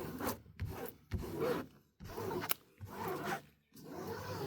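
A diamond painting canvas being handled, its surface rustling and rubbing in about five short scraping strokes, with one sharp click about two and a half seconds in.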